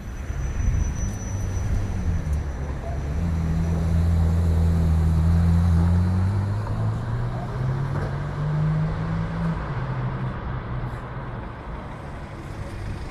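A car engine accelerating, its pitch climbing, dropping once partway through and climbing again, over road noise. It grows louder to about the middle, then fades away.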